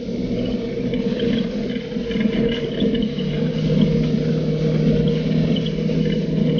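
Polaris RZR 570 side-by-side's single-cylinder engine running at a steady speed under way, with scattered small clicks and rattles over the drone.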